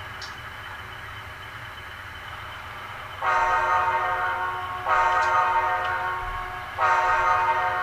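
Sound-equipped HO-scale model F59PHI locomotive running with a steady low hum, then about three seconds in its horn sounds in three blasts of a second or more each, the last running on past the end.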